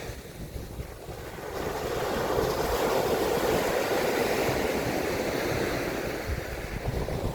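Sea surf and wind rushing on the microphone, swelling up about a second and a half in and then holding steady.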